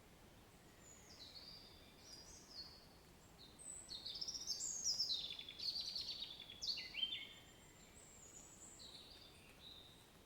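A songbird singing a string of high chirps and short descending phrases, with a burst of fast trilled notes in the middle, over a faint steady background hiss.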